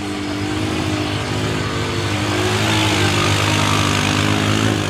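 Off-road vehicle engine running steadily under load as it does donuts in a mud puddle, its pitch holding fairly even.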